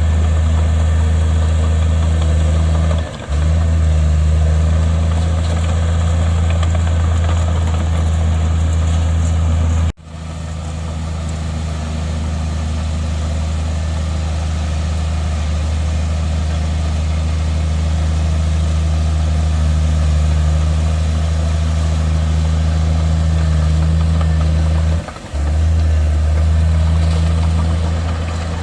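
Heavy diesel engine of earthmoving machinery running steadily with a deep, even hum. The sound cuts out sharply about ten seconds in and swells back, with short dips near three seconds and near the end.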